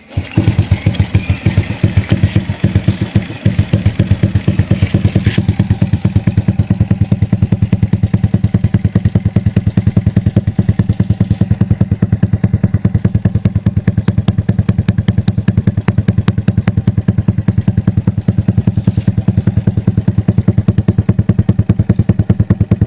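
Honda Revo's single-cylinder four-stroke engine running steadily through a CLD Monster aftermarket exhaust, a loud, rapid, even train of exhaust pulses with no revving.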